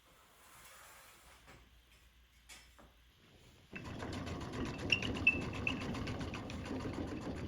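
A power tool starts abruptly a little over halfway in and runs with a fast, even rhythm, after a quiet stretch with one faint click.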